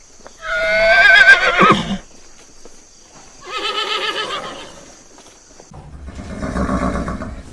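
Horse whinnying: three calls. The first, starting just under half a second in, is the loudest and wavers in pitch.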